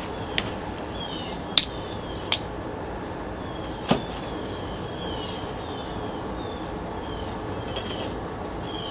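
Sharp metallic clinks and taps from ceiling-fan scrap parts being handled and knocked apart, four or five in the first few seconds, over a steady background hiss.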